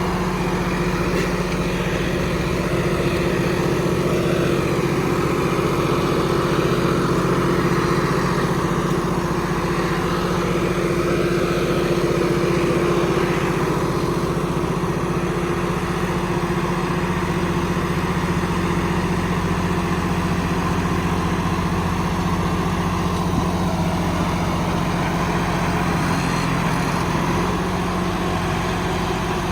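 John Deere tractor's diesel engine running steadily under load while pulling a disc harrow in second gear.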